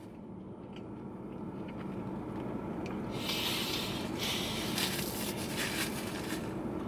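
A person chewing a mouthful of dry, overcooked fried chicken sandwich, with a few soft crunchy crackles from about three seconds in, over a steady low hum inside a car.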